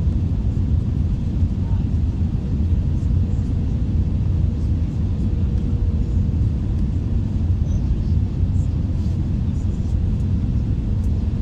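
Airbus A321 cabin noise: a steady low rumble of the engines and airflow, with a faint steady hum above it.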